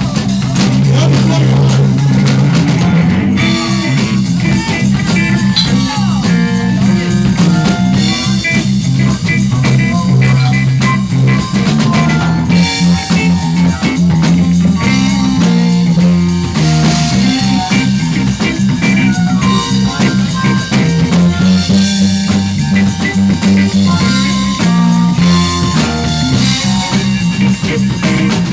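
Live rock band playing an instrumental passage: electric guitar, bass and drum kit, loud and steady.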